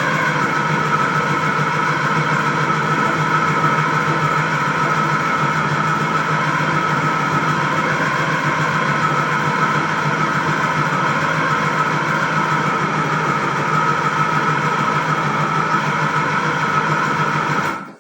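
Electric food processor motor running steadily as it pounds cooked yam into pounded yam, then switching off abruptly near the end.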